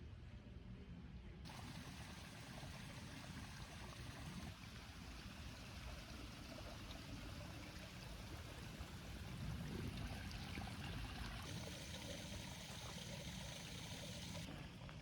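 Running water, a steady trickling stream, changing in tone a few times.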